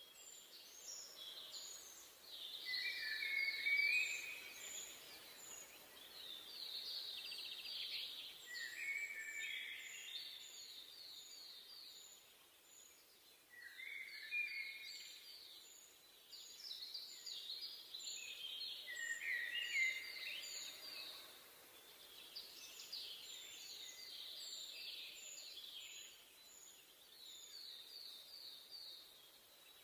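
Songbirds singing: repeated rapid trilled phrases come every few seconds, with a steady series of short, thin, high notes from another bird, over a faint hiss.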